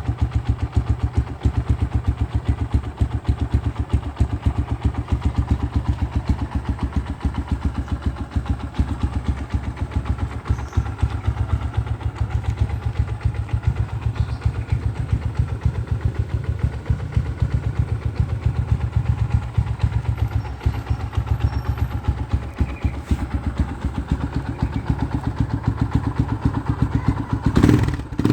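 Yamaha Scorpio Z 225's single-cylinder four-stroke engine running steadily at idle through a modified stock exhaust, with an even, rapid pulsing beat. A brief louder surge comes near the end.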